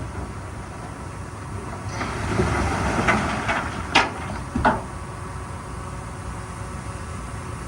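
Heavy diesel machinery running steadily, with a few sharp metal clanks about three to five seconds in.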